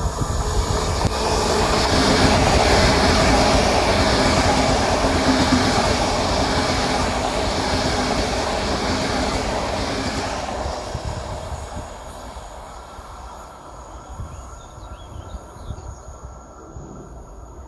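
A train passing through the station, with the steady noise of wheels on the rails swelling and falling every second or so as the cars go by; it fades away about ten seconds in.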